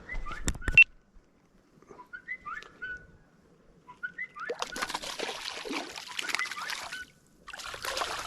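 A few short bird chirps, then several seconds of splashing and thrashing as a hooked bass is brought in, with sharp knocks in the first second.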